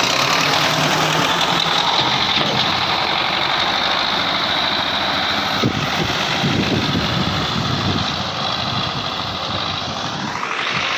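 Tractor diesel engine running steadily and loud, with a whine that rises in pitch near the end.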